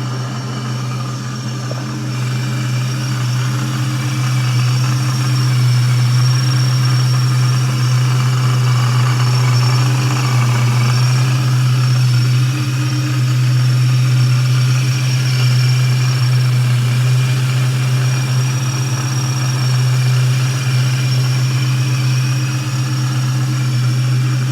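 Supercharged 2003 Ford Mustang GT's 4.6-litre two-valve V8 idling steadily on its first start after a Vortech V3 supercharger install, a little louder from about two seconds in.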